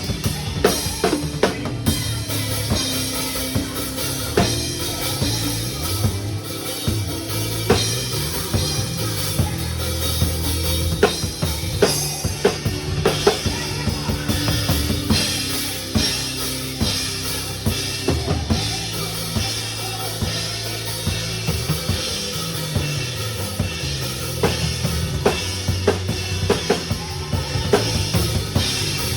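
Drum kit played with a music backing track: kick drum, snare and rimshot strokes in a steady groove over a bass line.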